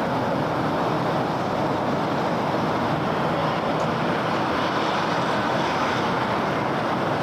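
Steady city traffic noise: a continuous wash of vehicles and tyres on the road, with no single vehicle standing out.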